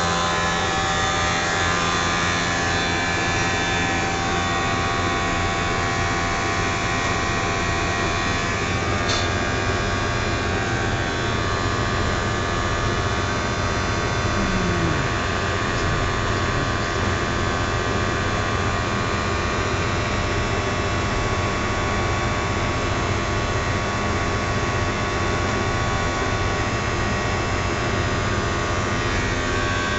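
Triangle blower motor running steadily: a constant hum with several steady high tones over it. A faint click about nine seconds in and a brief falling tone a few seconds later.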